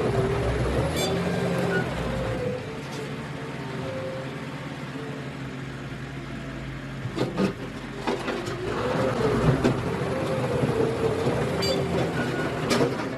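A heavy vehicle's engine running steadily, with a higher tone that wavers slowly up and down and a few sharp knocks in the second half.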